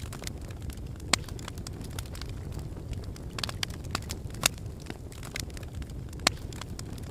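Wood fire burning in a fireplace, with a steady low rush of flames and irregular sharp crackles and pops, three louder pops standing out.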